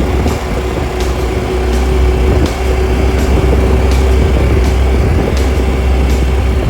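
Honda Super Cub's small single-cylinder four-stroke engine running at a steady speed on the road, with a deep rumble of wind and road noise and a steady hum. Faint regular ticks come about every 0.7 seconds.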